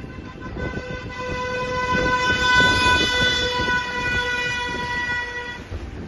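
A horn sounding one long steady blast for about five seconds, over low rumbling background noise.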